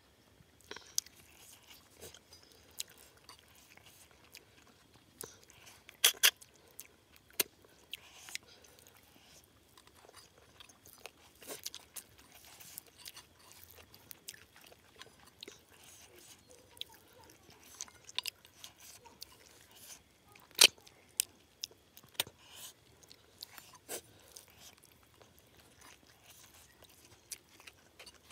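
A person eating rice and cooked snails by hand, close up: chewing and mouth noises with scattered sharp clicks at an irregular pace, a few louder ones about six seconds in and another about two-thirds of the way through.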